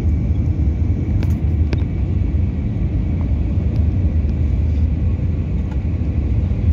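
Airbus A320neo airliner on approach: a steady, loud low rumble of engine and airflow noise with a faint steady whine above it.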